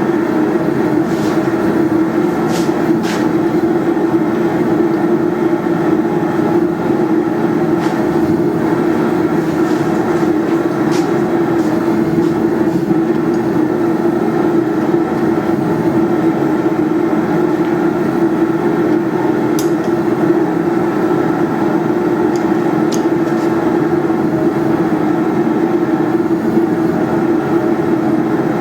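Forge running with a steady, unbroken rumble, with a few faint clinks of metal.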